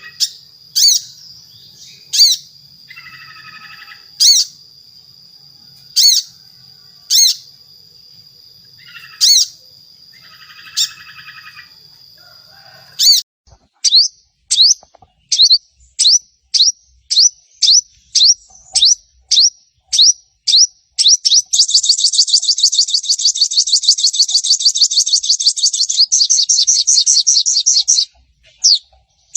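Sogon (a small sunbird) song: sharp, high, down-sweeping chirps every second or two with a couple of buzzy notes over a steady high tone. About halfway through, the chirps come quicker, and they run into a long, rapid, dense chatter (the crecetan) near the end.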